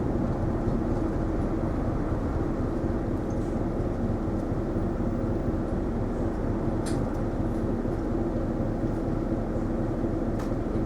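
Inside the cabin of an Isuzu Erga non-step city bus: a steady engine and running hum, with a couple of faint clicks.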